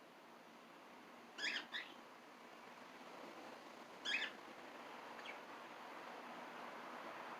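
Short, high chirps from small pet parrots: a quick pair about a second and a half in, another about four seconds in, and a faint one a second after that, over a quiet steady background.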